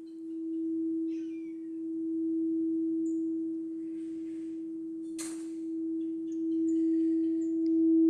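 Crystal singing bowl sounding one steady, pure tone that swells and eases in loudness as it is played; this is the bowl's tone for the sacral chakra.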